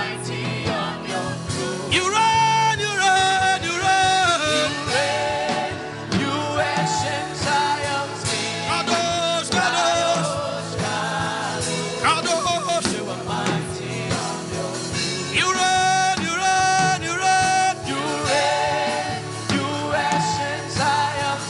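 Gospel worship music: a voice singing held, wavering notes of a chant-like worship song over instrumental backing.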